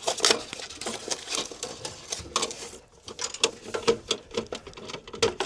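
Folding sawhorse with adjustable legs being handled and unfolded: irregular clicks, taps and rattles of its leg and lock mechanism.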